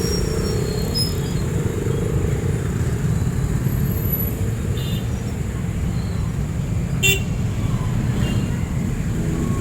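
Steady city street traffic rumble, with brief vehicle horn toots about five seconds in and again, short and sharp, about seven seconds in.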